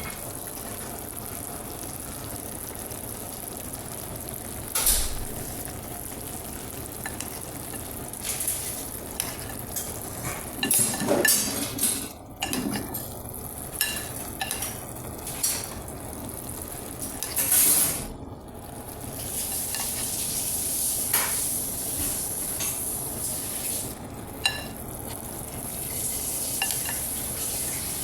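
Food sizzling steadily in a hot frying pan while a utensil stirs and scrapes it, with intermittent clicks and clinks of metal against the pan.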